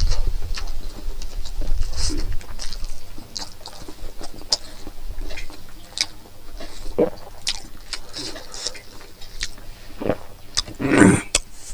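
A person eating with their fingers: chewing cooked pork and rice, with many short, wet smacking clicks of the lips and mouth. There is a low rumble in the first few seconds and a louder mouth sound near the end.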